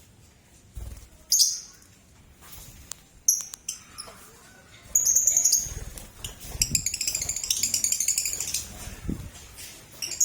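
Lovebirds chirping shrilly: a few sharp calls, then a rapid run of chattering calls, with low thuds and wing-flutter among them.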